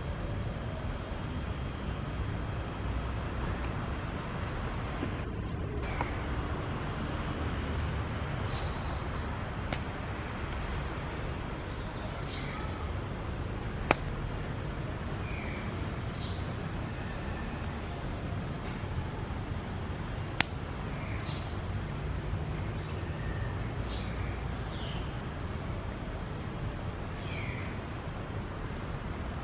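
Wild birds calling: scattered short high chirps and quick downward-sliding whistles, over a steady low background rumble. Two sharp clicks stand out, about 14 and 20 seconds in.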